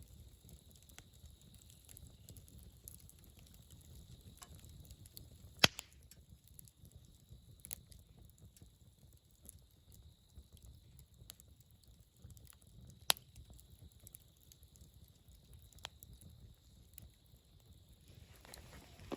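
Wood campfire burning, a soft low rumble broken by a few sharp, isolated pops and crackles, the loudest about six seconds in. A rustling starts near the end.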